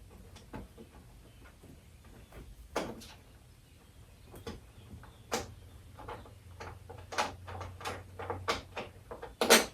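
Scattered clicks and light knocks of hard plastic parts being handled while a small screw nut on the prop is unscrewed, coming more often in the second half.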